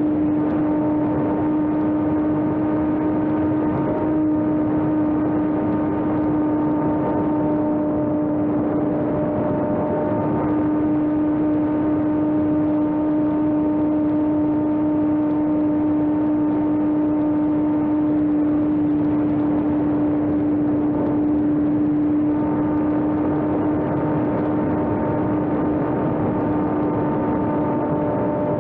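A small electric RC airplane's brushless motor and propeller whining at steady throttle: one steady tone with fainter overtones above it over rushing air noise.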